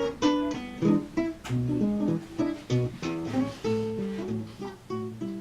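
Background music: an acoustic guitar picking notes in a quick, even rhythm.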